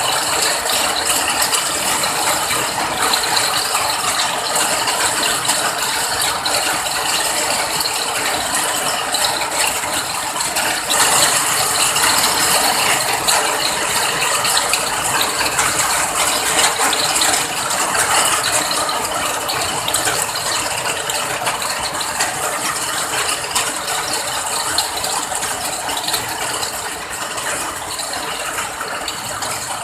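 Steady rain: a dense, even patter of many fine drop impacts, swelling slightly about eleven seconds in.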